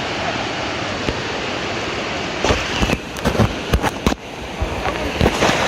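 Serendah waterfall rushing with a steady roar of falling water. Partway through, a burst of sharp knocks and bumps cuts across it for a second or two.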